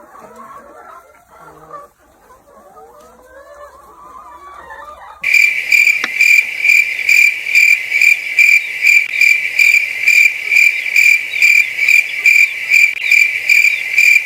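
Faint chicken clucking, then about five seconds in a loud cricket chirping starts abruptly and runs on steadily, pulsing two or three times a second.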